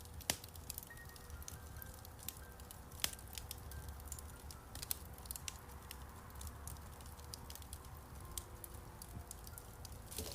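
Wood fire in a fireplace crackling, with irregular sharp pops, the loudest about a third of a second in and about three seconds in, over a low rumble. Soft piano notes sound faintly underneath.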